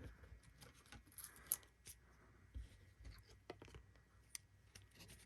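Faint handling noises: scattered light taps, scrapes and rustles of a cardboard blaster box and card packs being moved aside.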